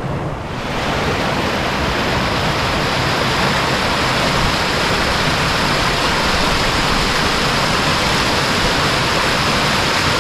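A stream's water rushing steadily and loudly, rising about half a second in.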